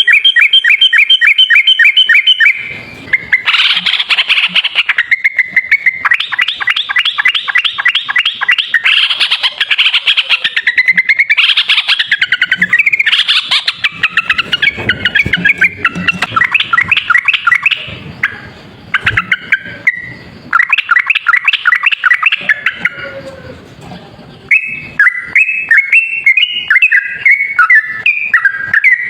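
Yellow-vented bulbul (trucuk) singing its rapid song: loud runs of quickly repeated chattering notes, broken by short pauses, as used for a bird-luring call.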